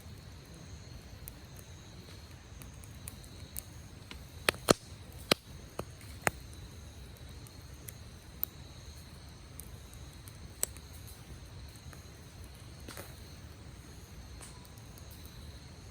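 Wood campfire crackling, with a cluster of sharp pops about four to six seconds in and a few single pops later, over a low steady rumble.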